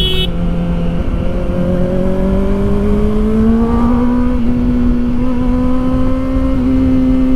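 Kawasaki Ninja ZX-4RR's inline-four engine running under throttle at speed, its pitch dipping briefly near the start, then rising slowly over a few seconds and holding steady, over a constant rush of wind.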